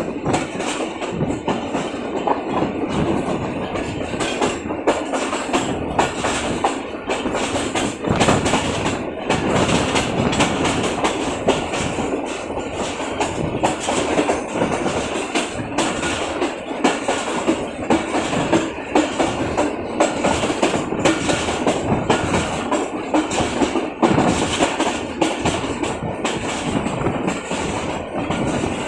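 Moving passenger train: a steady rumble of the wheels on the track, with repeated clacks as the wheels cross the rail joints.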